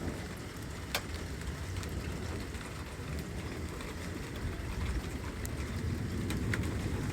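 Steady thunderstorm rain falling, with a low rumble underneath and a few sharp ticks of drops striking close by, the clearest about a second in.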